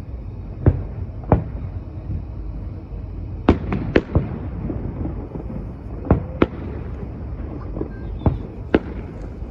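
Fireworks bursting overhead: about ten sharp bangs at irregular intervals, several coming in a quick cluster around the middle, over a steady low rumble.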